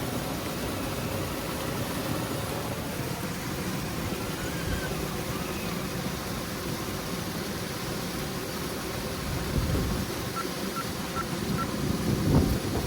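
Small electric RC rock crawler driving, its motor and drivetrain running as a steady low whirr, with louder surges about ten seconds in and again near the end. Four short, evenly spaced high beeps come just after the first surge.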